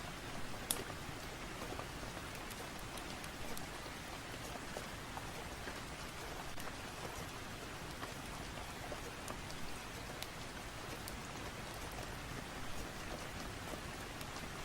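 Steady rain, an even hiss of falling drops, with a few sharp pops or crackles, the clearest about a second in.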